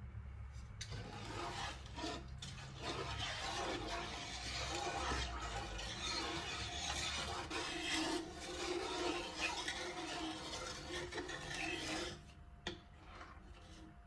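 A kitchen utensil scraping steadily, a continuous rasping rub that starts about a second in and stops abruptly about twelve seconds in.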